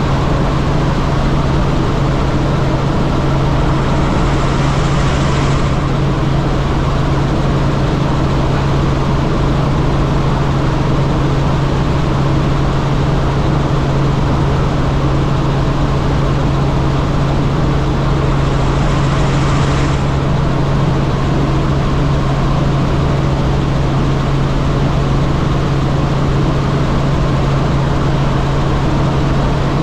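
Helicopter in flight, heard steadily and loudly from inside the cabin: a constant low drone from the rotors and engine over a wide rush of noise. Brief surges of hiss come about four seconds in and again near eighteen seconds.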